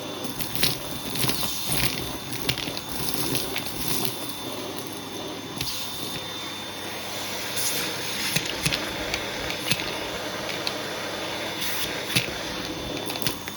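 Hoover vacuum cleaner running steadily with a thin whine, its hose tool sucking a sprinkled mix out of a shag rug. Scattered sharp clicks and crackles come throughout as bits rattle up the hose.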